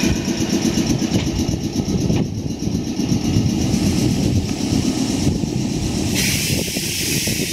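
Meitetsu 6500 series electric train pulling out of the station, its wheels and running gear rumbling steadily on the track. A hiss starts about six seconds in.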